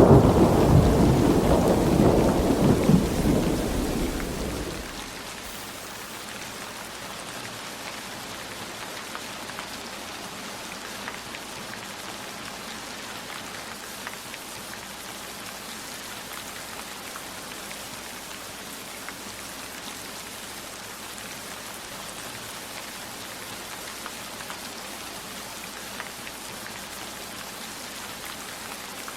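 Heavy rain falling steadily, with a low rumble of thunder that dies away over the first five seconds. Scattered faint drops tick through the rain.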